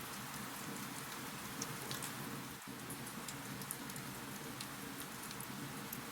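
Wood fire crackling in a fireplace: a steady hiss scattered with many small, sharp pops.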